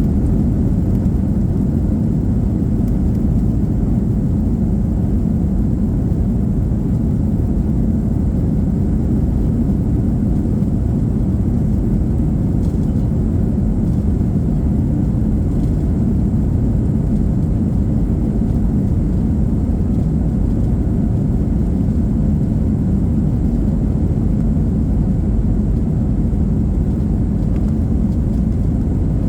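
Airbus A321's IAE V2500 turbofan engines running with a steady low roar, heard inside the passenger cabin.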